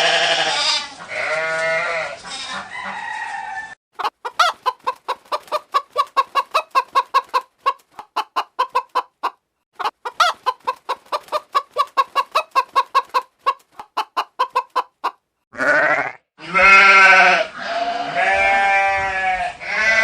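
A hen clucking in fast, even runs of short clucks, about five or six a second, in two long bouts with a brief break between them. Bleating calls come just before the clucking begins and again after it stops.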